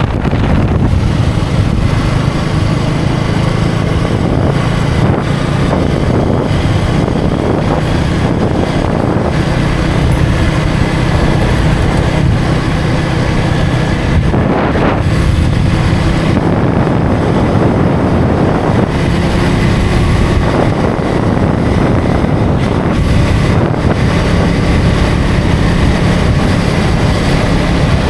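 Single-cylinder engine of a KTM Duke 250 motorcycle running under way at a fairly steady speed, with wind rushing over the microphone.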